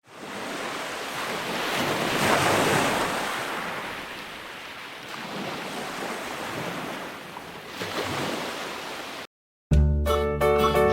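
Sea surf washing in and out with wind, swelling twice, then cut off abruptly. Music with pitched keyboard-like notes starts near the end.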